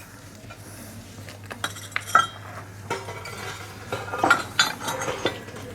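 Fired ceramic pieces clinking and knocking against each other as they are handled, a scatter of sharp clinks with a strong one about two seconds in and a cluster in the second half.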